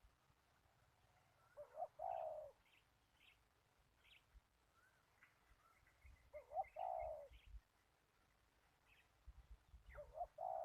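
A dove cooing: three short phrases about four seconds apart, each a couple of quick notes leading into a longer coo. Faint high chirps of small birds come in between.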